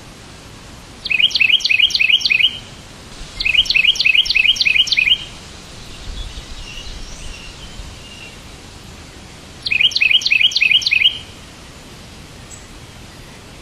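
A bird calls in three quick runs of repeated chirps, each run of about six or seven notes lasting a second or two. A few softer chirps come between the runs, over a steady background hiss.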